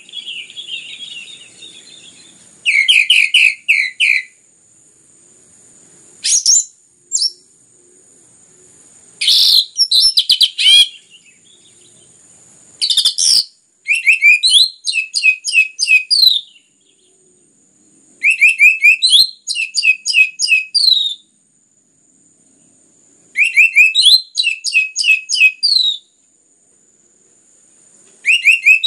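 Orange-headed thrush (anis merah) singing loudly in bursts of fast, rapidly repeated sharp notes, each phrase lasting one to three seconds with short pauses between. A steady high-pitched whine runs underneath.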